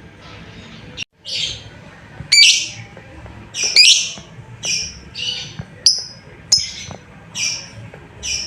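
Lovebird giving a series of short, shrill, high-pitched calls, about ten of them in quick succession, some with a sharp click at the start.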